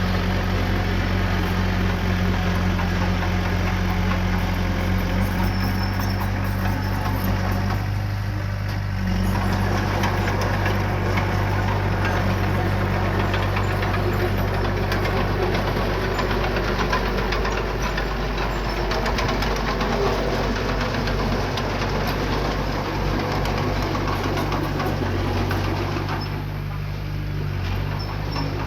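Small bulldozer's diesel engine running steadily, with a dense metallic clatter over the engine note. The engine note dips briefly about eight seconds in and again near the end.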